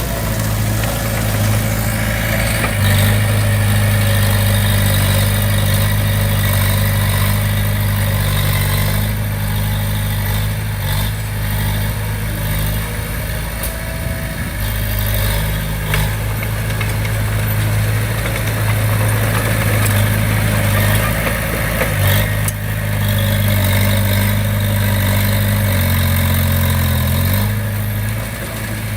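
Bulldozer diesel engine running steadily, its note shifting up and down a few times as the load and throttle change, with a few brief knocks.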